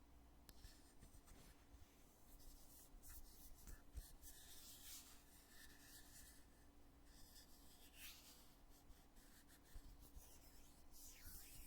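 Lid of a foundation container being handled, opened and closed: faint rubbing and scraping strokes, with a sharp click about four seconds in.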